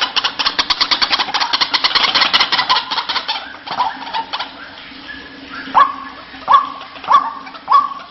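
White-breasted waterhen calling: a fast run of rapid notes for the first few seconds, then after a short lull, loud repeated 'kru-ak' calls about two a second toward the end, over a faint steady hum.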